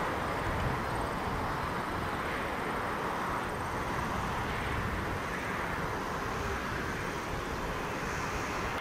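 Airliner engines running at takeoff power: a steady, even jet roar with a low rumble beneath it, holding at one level throughout.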